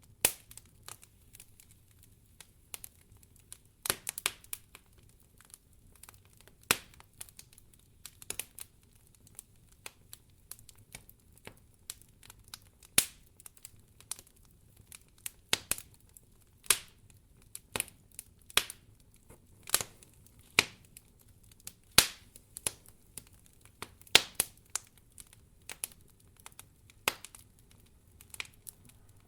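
Wood fire crackling in a fireplace: irregular sharp pops and snaps, about one or two a second, a few much louder than the rest.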